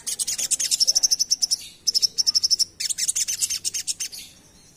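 Crimson sunbird (sogon) singing its fast chattering 'ngerap' song: rapid trains of high, sharp notes, roughly a dozen a second, in three runs with short breaks between them.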